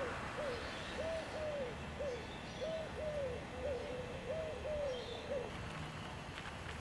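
A bird calling outdoors, a run of short hooting notes, each rising and falling in pitch, about two or three a second; the calls stop about five and a half seconds in.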